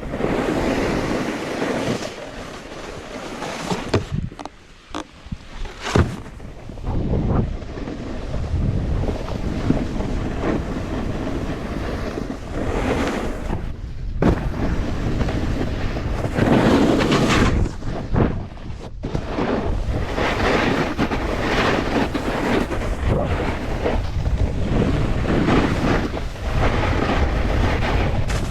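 Wind rushing over a helmet-mounted GoPro microphone while snowboarding, with the board scraping over snow and a few sharp knocks.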